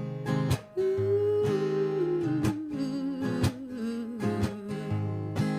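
Acoustic guitar strummed in a steady rhythm as a song's introduction. Over it, a long wordless vocal note wavers and slides slowly downward for a few seconds.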